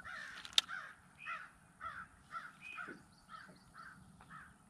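A bird calling in a series of short calls, about two a second, growing fainter after about three seconds. A single sharp click about half a second in.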